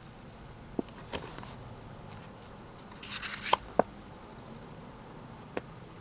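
Paper handling on a K-pop album photobook: a few light taps and clicks, with a short paper rustle about three seconds in as a page is turned.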